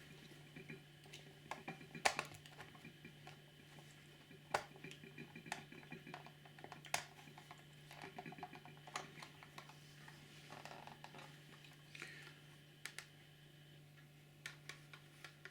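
Faint, irregular small clicks and taps of a plastic model railcar body shell being handled and eased onto its chassis by fingers, over a steady low hum.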